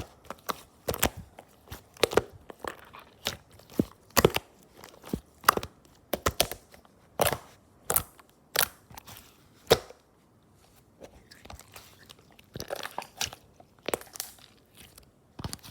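Slime being pressed and squished by hand, giving irregular sharp pops and clicks, with a quieter pause about two-thirds of the way through.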